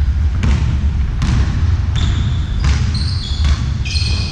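A ball bouncing on a hard court floor, about six knocks spread over the few seconds, with high squeaks starting about halfway through and a steady low rumble under it all.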